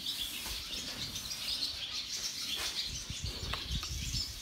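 Small birds chirping repeatedly in quick short calls, over a low rumble with muffled knocks that grows about halfway through.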